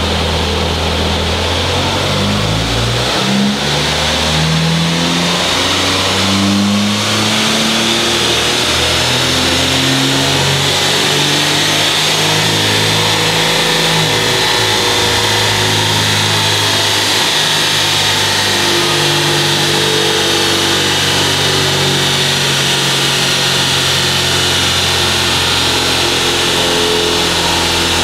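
Car engine running on a rolling-road chassis dynamometer. Its note climbs in steps over the first several seconds, then holds fairly steady.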